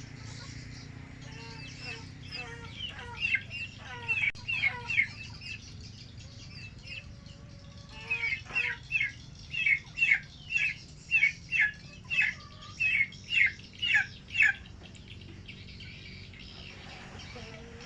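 Swiftlets chirping: short, sharp, falling calls at about two a second, in two bouts, the second longer and louder, over a steady low hum.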